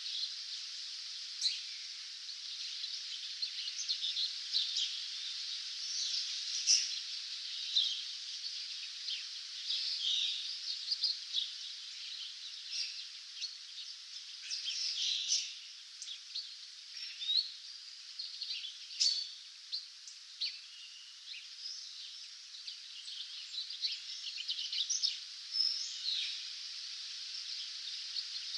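Several wild songbirds chirping and singing in a dawn chorus, many short calls and trills overlapping over a steady hiss.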